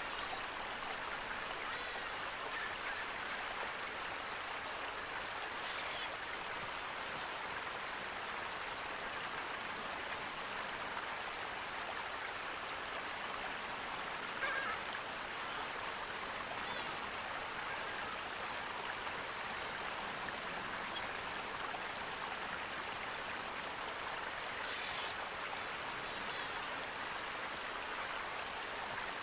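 Flowing water running steadily in an even rush, with a few faint, brief sounds over it, the most noticeable about halfway through.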